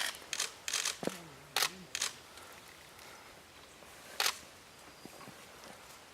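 Camera shutters clicking in short bursts, several in the first two seconds and one more about four seconds in.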